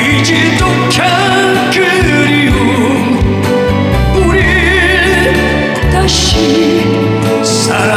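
A Korean ballad being sung: a voice holding long notes with vibrato over full band backing with a steady bass line.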